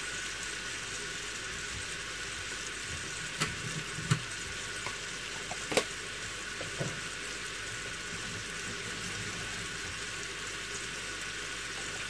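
Turkey pieces and broccoli in sauce and marinade sizzling steadily in a frying pan, with a few sharp clicks in the middle.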